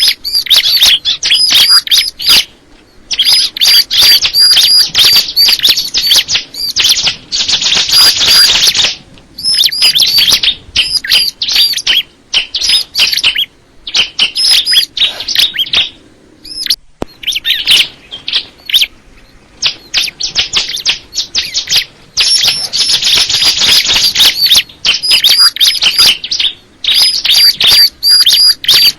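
A crystal ciblek (bar-winged prinia) sings loud, rapid phrases of high, sharp chirps, broken by short pauses of about a second between bursts.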